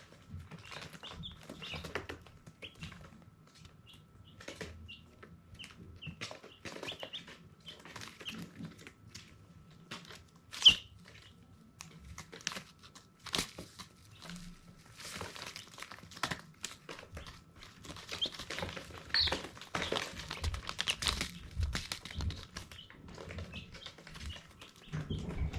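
Baby chicks moving about with rustling, scratching and wing flapping, with scattered short high peeps; one louder peep about ten seconds in.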